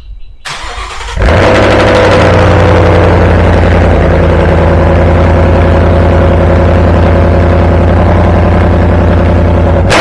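Ford Mustang GT V8 starting with a brief crank, catching about a second in and then idling loud and steady. Its exhaust has the resonators deleted, the cats kept and Roush straight-through performance mufflers fitted.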